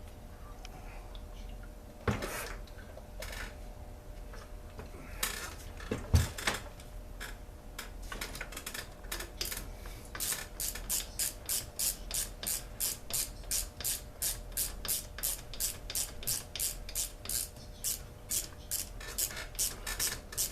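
Hand tools working on a Poulan Pro chainsaw during teardown. A few metal knocks and clanks come first, the loudest about six seconds in. Then a steady run of short rasping strokes follows, about three a second, for the rest of the time.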